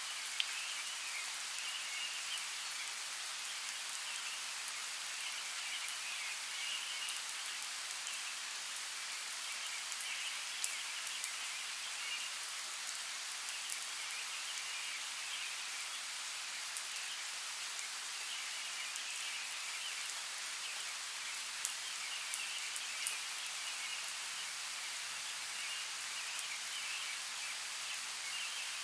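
Steady rainfall hissing, with scattered sharper drop hits standing out now and then, a cluster of them about three quarters of the way through.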